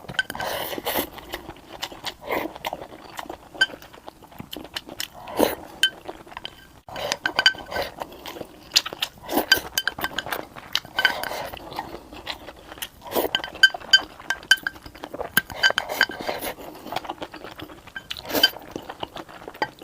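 Close-miked eating of Chinese home-style food: chewing, with frequent short clinks of utensils against ceramic dishes, some ringing briefly.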